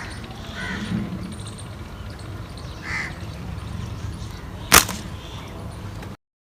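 Two short, harsh bird calls over a low outdoor rumble, then a single sharp crack a little before five seconds in, the loudest sound. The sound cuts off abruptly near the end.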